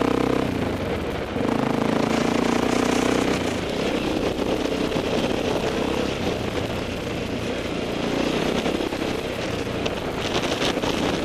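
Honda XR650R's single-cylinder four-stroke engine running through a newly fitted Leo Vince X3 slip-on exhaust, which is meant to make the bike quieter on the trail. It is steady, with its level rising and falling a little, and gets louder about a second in.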